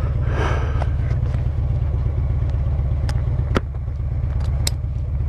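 Harley-Davidson Road Glide's V-twin engine running steadily with wind noise, heard from on the bike. Three sharp clicks come in the second half.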